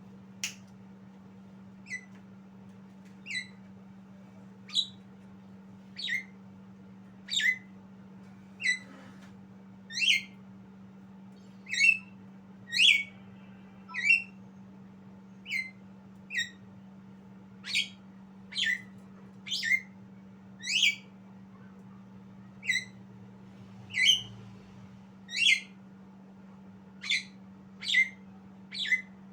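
Javan myna giving short whistled calls that slide steeply downward in pitch, repeated about once every one to one and a half seconds, over a steady faint low hum.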